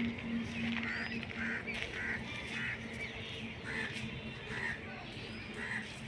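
A string of short bird calls, one every half second to a second, over a steady low hum that fades after the first couple of seconds.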